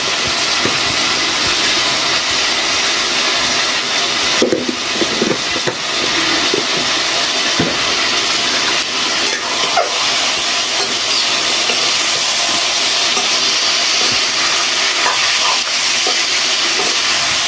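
Chicken pieces sizzling in hot oil in a metal wok over a wood fire: a steady, loud hiss with a few light crackles. Near the end a ladle stirs the meat in the pan.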